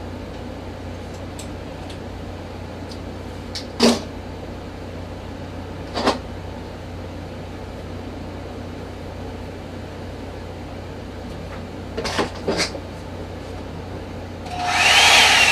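Revlon One-Step hot-air brush dryer running with a steady blowing noise and low hum, broken by a few sharp clicks. A louder rush with a brief whistling tone comes in near the end.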